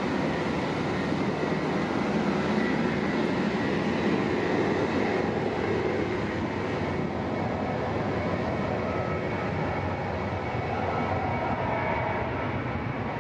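Steady rumble of a Boeing 737-800 with its CFM56-7B turbofan engines running, a continuous noise with faint steady tones and no distinct events.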